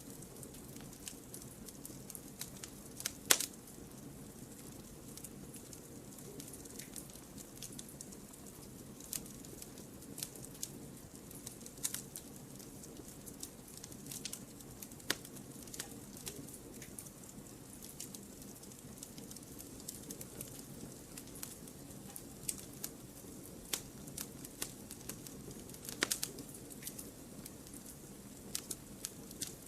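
Wood fire burning in a fireplace: irregular crackles and sharp pops over a low steady hiss, with the loudest pops about three seconds in and near the end.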